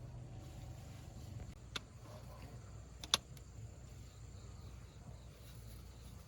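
Faint steady low hum with two short sharp clicks about a second apart.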